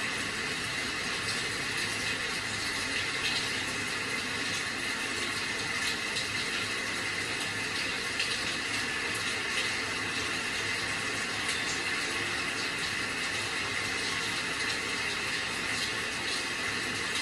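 Steady rain: an even hiss of falling water, with faint scattered drop ticks.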